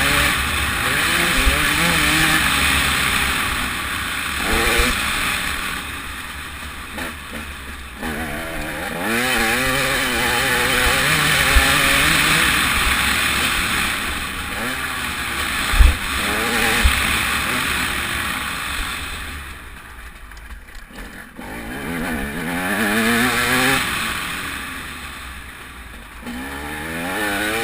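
TM 300 two-stroke motocross bike's engine revving hard and backing off over and over, its pitch rising and falling through the gears, with heavy wind buffeting on the microphone. A few short low thumps come through, and the engine drops back almost to nothing twice in the second half.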